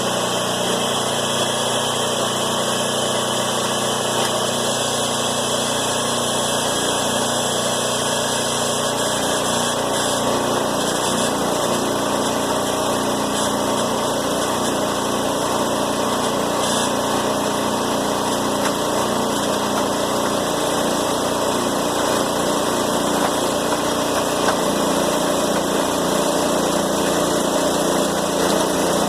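A machine running with a steady, unchanging engine-like drone, its pitch and loudness even throughout.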